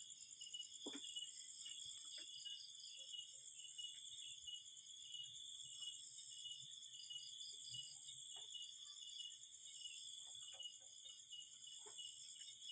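Faint, steady chorus of insects, high-pitched, with a fine pulsing trill, and a few faint short chirps now and then beneath it.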